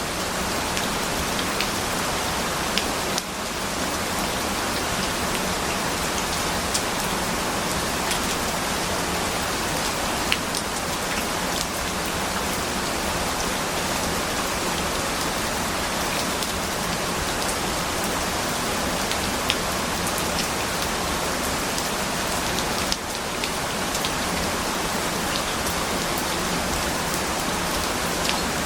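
Steady, dense rainfall with scattered sharp ticks of individual drops; the level dips briefly twice.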